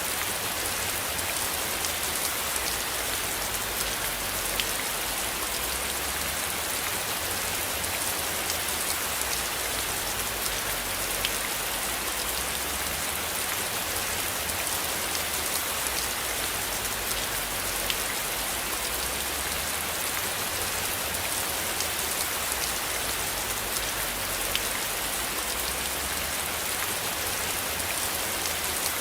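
Steady rain falling, an even hiss with now and then a single louder drop tick.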